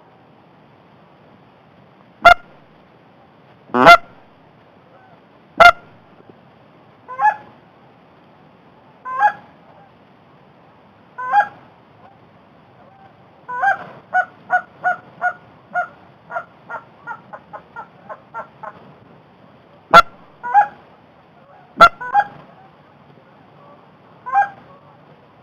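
Canada goose honks and clucks: single calls every second or two, then a quick run of clucks near the middle that speeds up and fades. A few of the calls are much louder and closer than the rest.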